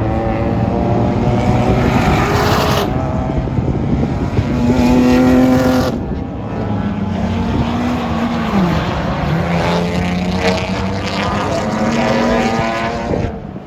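Race car engines running hard on the track, their pitch climbing and then stepping down several times as the cars shift and lift, the loudest stretch about five seconds in.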